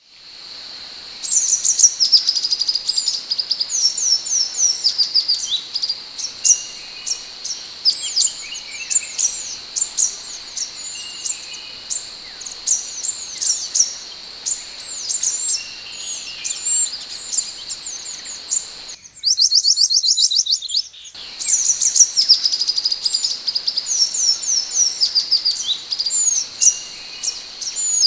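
Scarlet minivet calling: rapid, busy runs of short, high, sweeping chirps, over a steady high-pitched whine. About two-thirds of the way in, a brief section of faster, evenly repeated notes breaks in, then the chirping resumes.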